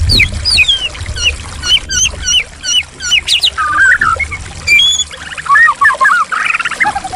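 White-rumped shama (murai batu) singing: a fast string of sliding whistled notes, turning about halfway into harsher, buzzy chattering phrases. Trickling, flowing water runs underneath, more faintly near the end.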